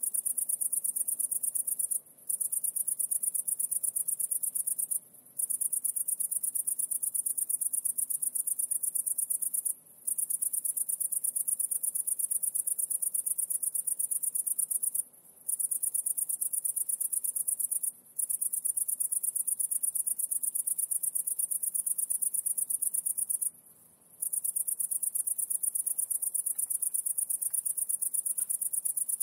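A continuous, very high-pitched insect trill made of rapid pulses, broken by short pauses six times.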